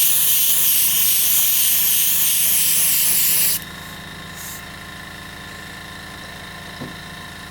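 Airbrush spraying paint with a steady hiss that cuts off abruptly about three and a half seconds in, leaving a steady low hum.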